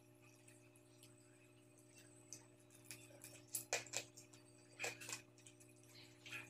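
Faint close-up eating sounds of a man chewing fried fish, with a few sharp mouth smacks and clicks clustered between about three and a half and five seconds in, over a steady low hum.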